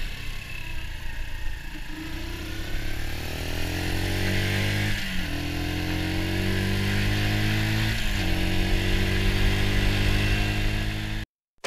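Sinnis Bomber 125's air-cooled single-cylinder four-stroke engine pulling hard under acceleration, its pitch rising and then dropping sharply at two upshifts, about five and eight seconds in, over wind rush on the microphone. The sound cuts off just before the end.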